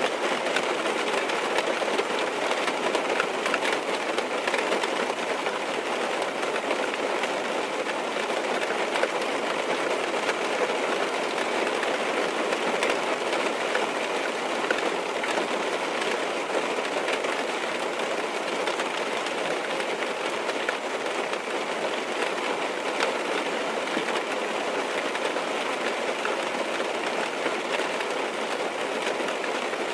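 Steady rain falling on a car's roof and windows, heard from inside the car: an even patter with many small drop ticks.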